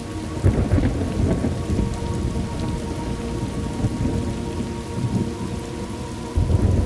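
Thunderstorm: steady rain with rolling thunder. A low rumble swells about half a second in, and another begins near the end.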